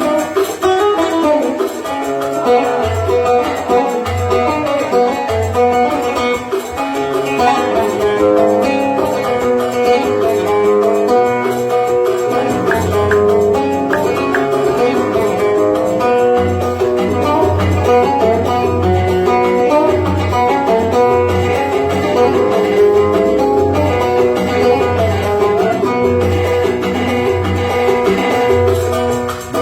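Oud playing an instrumental passage of a Yemeni Sanaani song, quick plucked melody lines over low pulsing bass notes.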